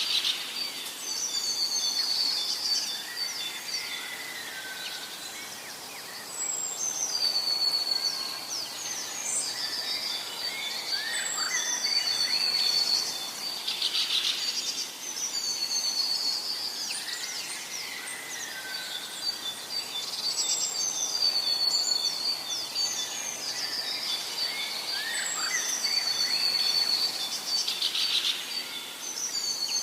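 Forest birdsong: several birds singing repeated short whistled phrases and trills, overlapping and going on throughout, over a faint steady background hiss.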